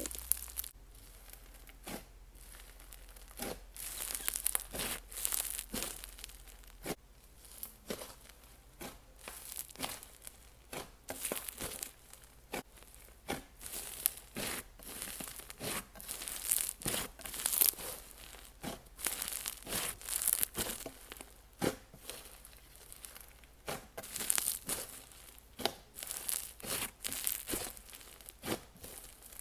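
Butter bingsu slime being squished and stretched by hand, giving a dense, sizzly crackling of many small pops.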